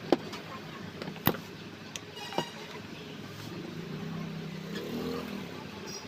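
Several sharp clicks and knocks from fan parts being handled during reassembly, the loudest near the start and about a second later, over a steady hum of street traffic. A vehicle horn toots briefly about two and a half seconds in.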